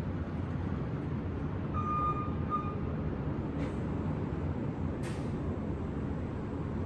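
Steady low rumble of city traffic heard from above the street. About two seconds in, a high-pitched tone sounds twice briefly, and later two short hisses follow.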